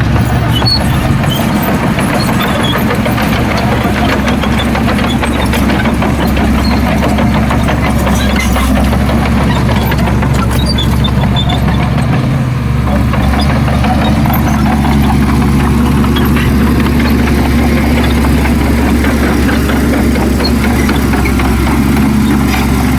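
Heavy diesel engine of earthmoving machinery running steadily and loud.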